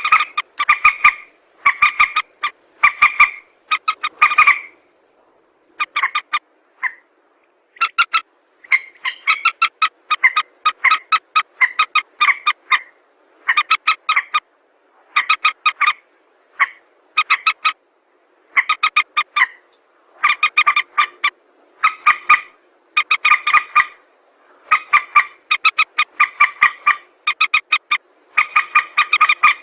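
Recorded calls of a mandar (rail) used as a trapping lure: bursts of rapid, repeated notes, roughly one burst a second with short pauses between runs.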